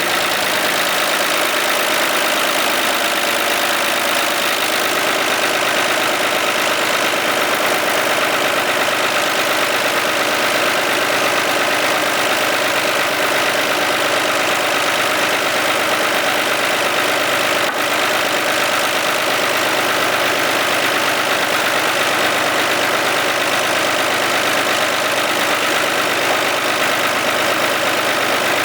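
Homemade hydraulic test rig for a U650 tractor's power steering unit running steadily: its pump drive runs at a constant speed, pushing oil through the steering unit.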